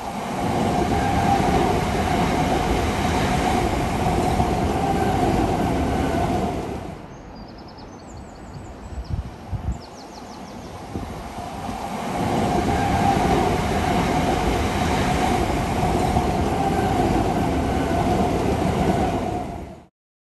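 Southeastern Class 375 Electrostar electric multiple unit running past on the rails: steady wheel-and-rail noise with a hum in it, easing off for a few seconds in the middle, where a few sharp clacks stand out, then loud again before cutting off abruptly near the end.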